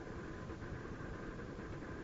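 Steady rush of wind over the microphone during a paraglider flight, a rumbling, hissy noise with no break.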